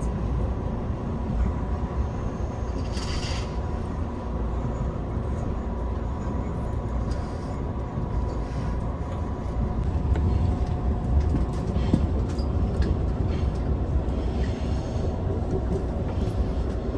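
Passenger train running, heard from inside the carriage: a steady low rumble with a thin, steady whine, growing a little louder about ten seconds in.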